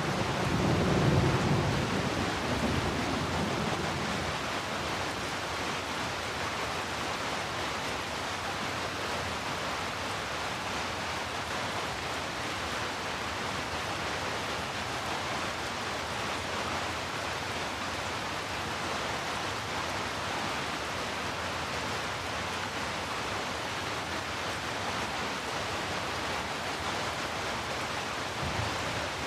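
Steady rain falling, an even hiss, with a low rumble of thunder dying away over the first few seconds.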